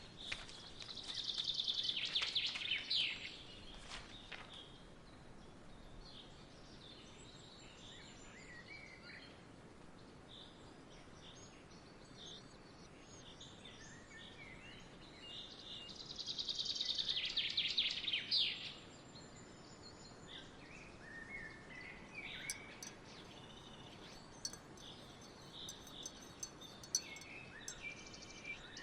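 Songbirds singing: a loud, rapid trill of about two seconds comes twice, near the start and about halfway through, with scattered short chirps from other birds between them over a faint steady hiss of outdoor background.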